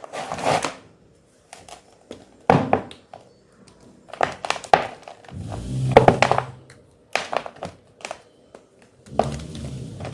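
Blocks of white gym chalk being crushed, crunching and crumbling in about six short bursts a second or two apart.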